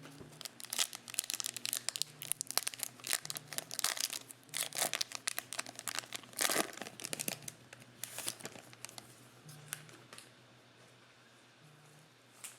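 Trading card pack wrappers being torn open and crinkled, a dense irregular crackling that eases off near the end.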